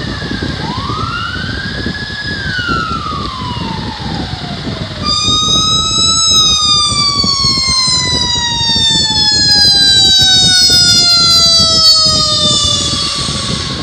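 Emergency vehicle sirens over a steady low rumble. One siren wails up and then down in the first few seconds, and from about five seconds in a louder siren tone slides slowly downward in pitch.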